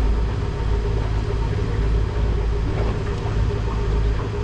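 Motorboat engine running steadily with the boat under way, a low steady drone with a constant hum above it.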